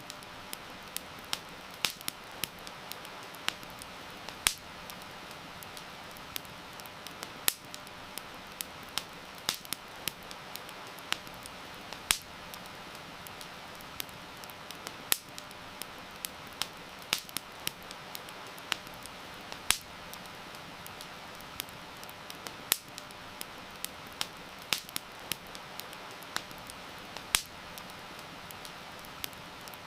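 Wood fire crackling, with irregular sharp pops of varying loudness, over a steady hiss of falling rain.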